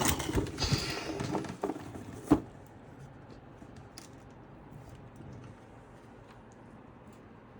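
Handling noise from computer parts being fitted by hand: light rustling and small clicks, ending in one sharp click a little over two seconds in. After that, quiet room tone.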